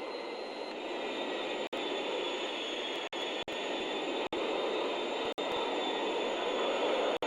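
Aircraft engine noise: a steady rushing sound with a faint high whine above it, cut by several brief dropouts.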